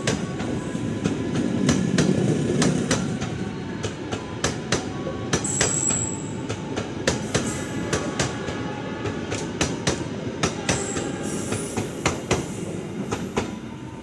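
Passenger train carriages rolling past: a steady low rumble with many sharp clacks of wheels over rail joints, and a high wheel squeal twice, about halfway through and again near the end.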